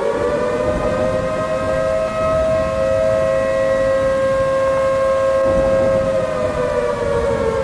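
Civil defense warning siren wailing, signalling the approaching cyclone: it rises at the start, holds a steady two-pitched tone, and begins to wind down near the end.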